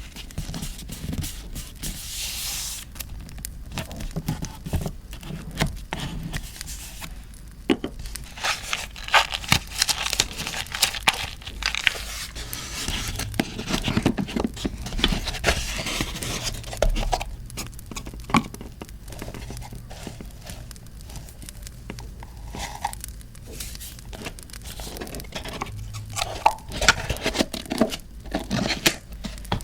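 Paper handled close to the microphone: irregular crinkling, rustling and tearing, with many small ticks and scrapes.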